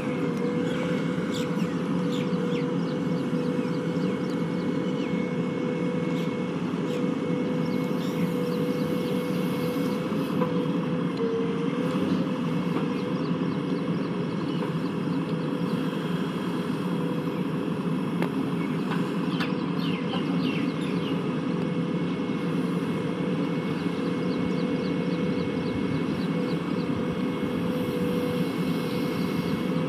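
A heavy diesel engine running steadily under even load, with a constant whine over its low rumble and a few faint clicks about two-thirds of the way through.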